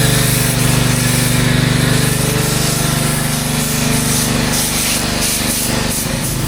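An engine running steadily with a rapid pulse, under a loud hiss of spray or air that changes near the end.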